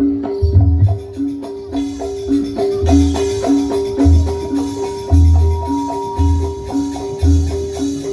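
Live East Javanese gamelan-style ensemble: metallophones play a repeating two-note figure over deep drum strokes, with a cymbal-like shimmer coming in about two seconds in.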